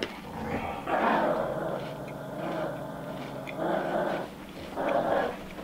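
Close-miked chewing of a mouthful of breakfast cereal with milk, in three louder stretches of mouth noise.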